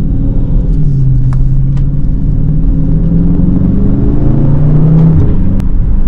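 Muscle-car V8 engine running loud at low revs, its pitch climbing a little and then dropping back about five seconds in.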